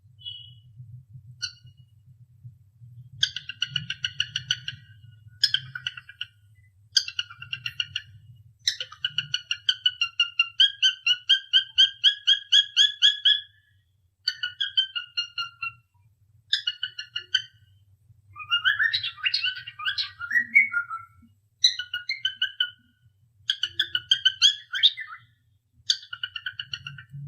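Cockatiel whistling in short phrases of rapid, pulsing notes, with a burst of looser chattering chirps in the middle. A faint steady low hum lies underneath.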